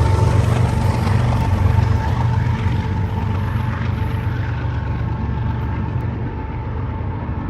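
Freight train of tank cars rolling past: a loud, steady, low rumble with a thin, steady squeal from the wheels above it, slowly fading.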